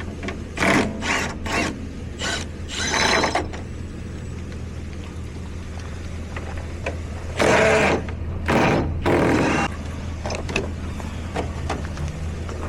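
Short bursts of metallic clattering and ratcheting as the truck's battery cover is worked loose with tools, over a steady low hum.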